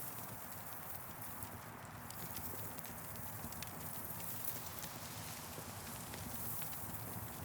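Campfire crackling: scattered sharp pops and snaps over a steady hiss with a low rumble.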